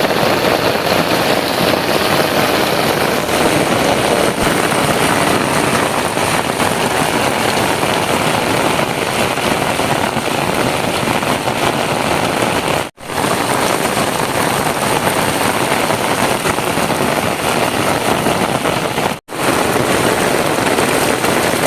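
Heavy downpour: a loud, dense, steady hiss of rain, broken twice by an instant of silence.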